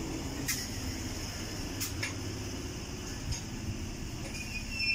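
London Underground Bakerloo line 1972 Tube Stock train rumbling as it slows into the platform. Short high squeaks come about half a second and two seconds in, and a brief high squeal comes near the end.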